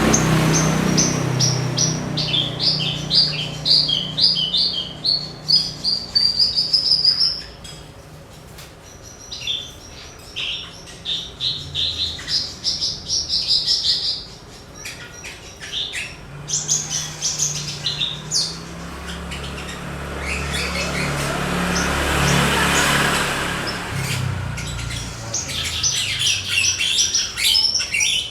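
Javan bush lark (branjangan) singing in fast runs of repeated high chirps and trills, broken by short pauses.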